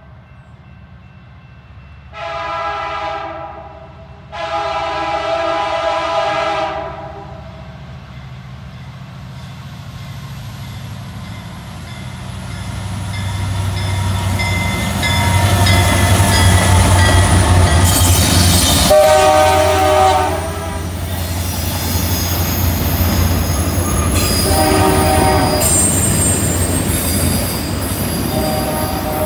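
Diesel-powered freight train approaching and passing: the locomotive's horn sounds two long blasts, then the lead diesel locomotives rumble by loudly with a few shorter horn sounds. Railcars follow with high-pitched wheel squeal from the curve.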